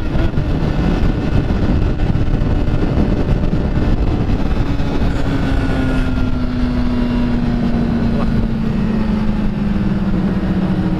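Motorcycle riding at road speed with heavy wind rush on the microphone; the engine's note holds steady, then drops slowly over the last several seconds as the bike eases off.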